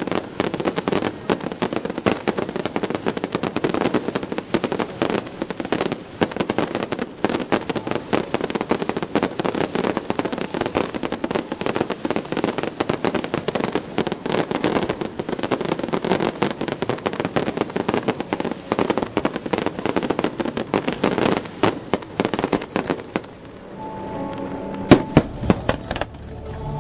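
Fireworks display: a dense, fast crackling of many small bursts going on for most of the time. Near the end the crackle dies down, music is heard, and one loud bang stands out.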